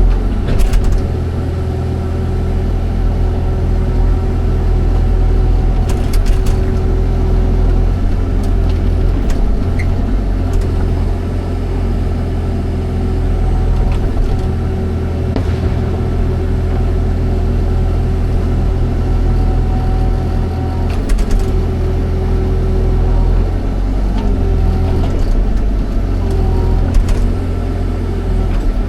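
Excavator's diesel engine running steadily under working load, its low hum dipping slightly now and then, with a few sharp knocks.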